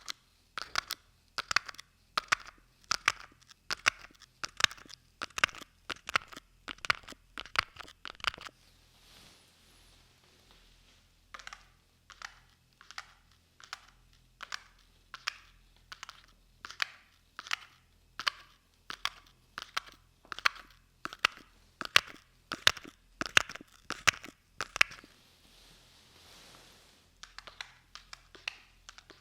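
Close-miked ASMR trigger sounds: a run of short, crisp crunching taps or scratches, about one or two a second, with two brief pauses.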